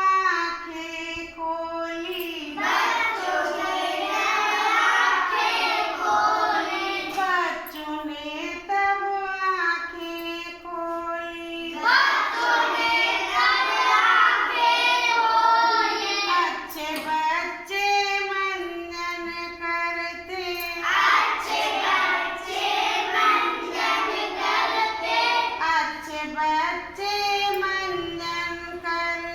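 Children singing a Hindi nursery rhyme together, with fuller, louder passages coming and going every few seconds.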